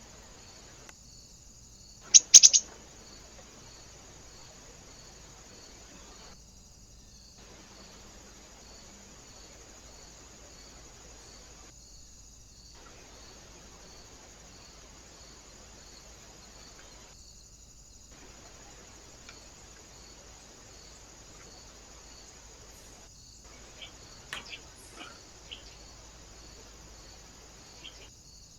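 Faint, evenly repeated insect chirping, like crickets, over a steady hiss. A few loud, sharp, high bird calls come about two seconds in, and a few quieter ones near the end.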